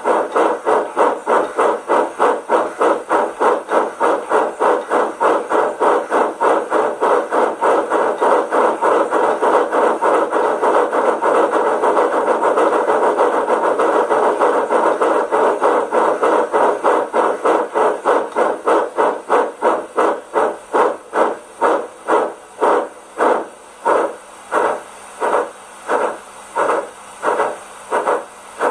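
Sound decoder of a Rivarossi Big Boy H0 model steam locomotive playing steam-exhaust chuffs through its small loudspeaker. The chuffs come in a fast, even beat that slows over the last several seconds to slower chuffs spaced well apart.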